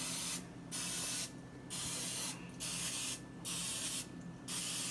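Olive oil cooking spray hissing out of the can in about five short bursts, a second or less each with brief gaps between, as a muffin pan is coated to keep the eggs from sticking.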